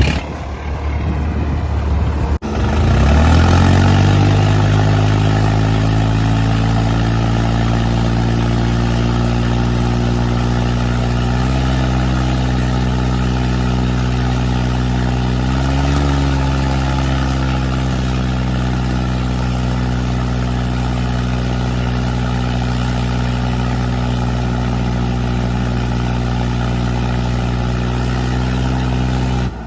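Tractor diesel engine running at high revs under heavy load, straining in a tug-of-war pull. After a brief break the revs climb about two and a half seconds in, then hold steady with slight surges twice.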